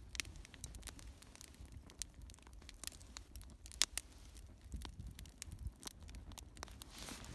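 Small wood fire that has just caught, crackling with scattered irregular pops, one louder pop about halfway through.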